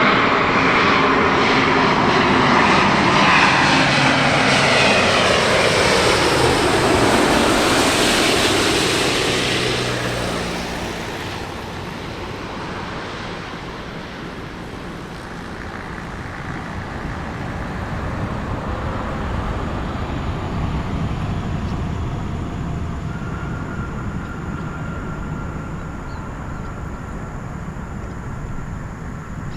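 An airliner passing close by, its engine note falling in pitch as it goes past, loudest in the first ten seconds, then fading to a steady distant rumble.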